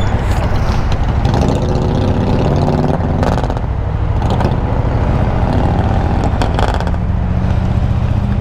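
Motorcycle engine running under way, its pitch rising and falling a few times as the rider works the throttle in slow traffic, with wind rush on the helmet microphone. There are brief sharp noises about three seconds in and again near seven seconds.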